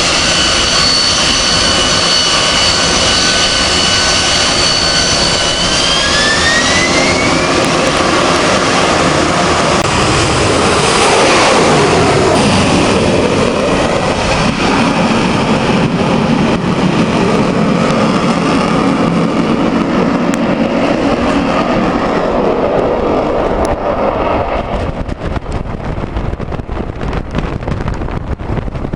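AV-8B Harrier's Rolls-Royce Pegasus turbofan on takeoff: a steady high whine that rises in pitch about six seconds in as the engine spools up, then loud jet noise that peaks around eleven seconds and fades away over the last several seconds as the jet departs.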